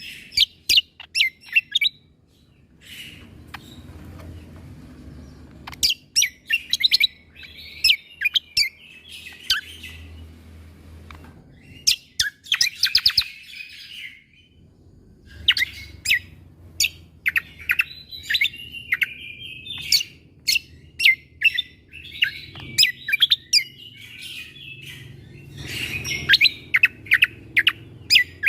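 Cucak kombo (kecial kombok) singing in repeated bursts of sharp, rapid shot-like chip notes mixed with short warbled phrases, with brief pauses between bursts.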